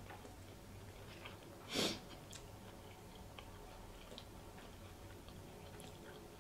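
Soft close-miked chewing with small wet mouth clicks, and one short, louder burst of noise about two seconds in.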